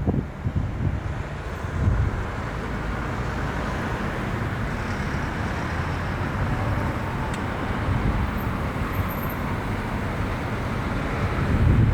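Wind buffeting the microphone, with heavy rumbling gusts about a second in and again near the end and a steady rushing between them.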